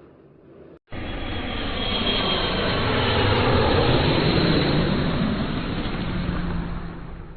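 RAF Eurofighter Typhoon fighter jet passing, starting abruptly about a second in, swelling to a peak in the middle and then fading, its pitch falling as it goes by.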